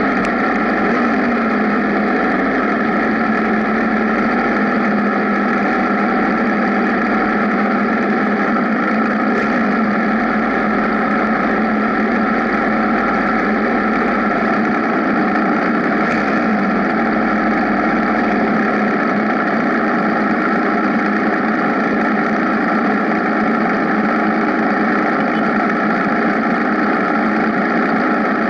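Benelli TNT 1130 Café Racer's 1130 cc inline-three engine running steadily at an even pitch.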